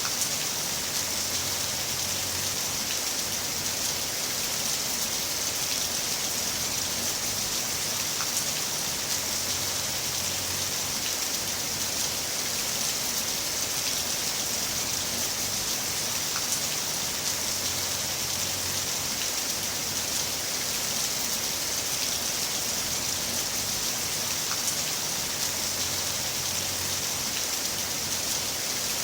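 Heavy rain falling steadily: an even, unbroken hiss with a few scattered sharper drop ticks.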